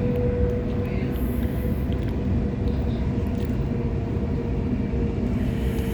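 Waratah electric train running along the line, heard from inside the carriage: a steady rumble of wheels on rail with a thin steady whine running over it.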